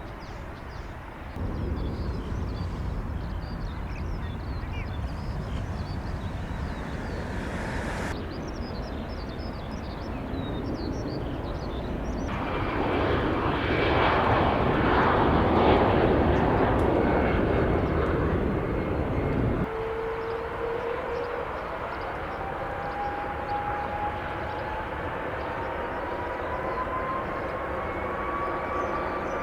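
Jet airliner engine noise, broken by sudden jumps in level and tone, and loudest about halfway through. In the last third a whine climbs steadily in pitch.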